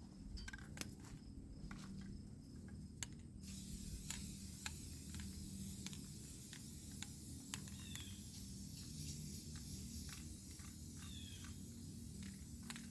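Aerosol spray paint can hissing faintly as paint is sprayed, starting about three seconds in and then running on, with scattered light clicks.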